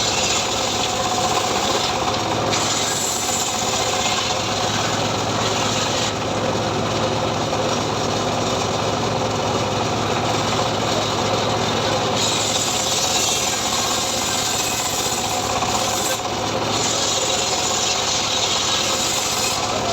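Homemade engine-driven sawmill rig running steadily while it saws sengon wood: a constant engine hum under a rasping hiss of the blade in the wood, which grows and fades every few seconds as the cut goes on.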